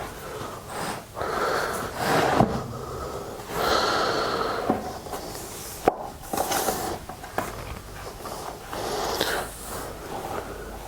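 Wooden boards being handled and slid against each other: several scraping rubs of a second or two each, with a few sharp knocks, the loudest about six seconds in.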